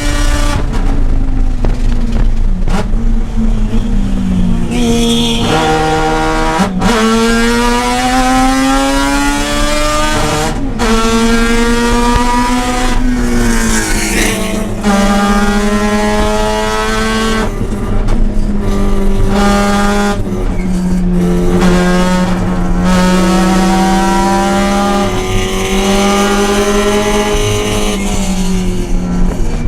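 Mazda RX-8's two-rotor rotary engine running hard on track. It climbs in pitch under acceleration, drops sharply at gear changes about seven and eleven seconds in, and falls away when the car slows.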